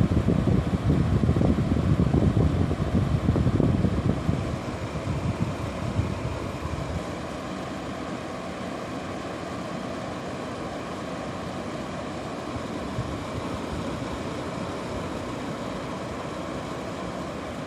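Air conditioner fan running with a steady rush of air. A heavy low rumble in the first few seconds eases off about five seconds in, leaving an even hiss.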